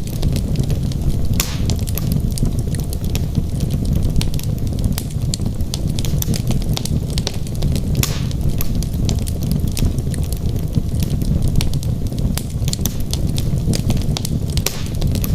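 Wood logs burning in a fireplace: a steady low rumble of flame with frequent sharp crackles and pops, a few of them louder, about a second and a half in, about halfway through and near the end.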